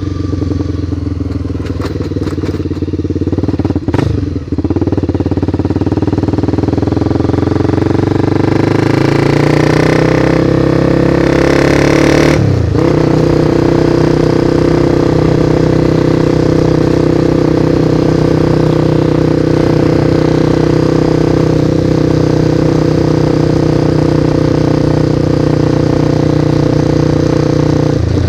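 Motorcycle engine under way: the revs climb for several seconds, break off with a gear change about twelve seconds in, then hold steady at cruise. A few sharp clicks come a few seconds in.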